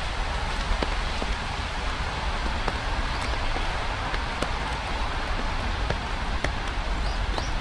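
Steady rain falling, with scattered individual drops ticking sharply over an even hiss.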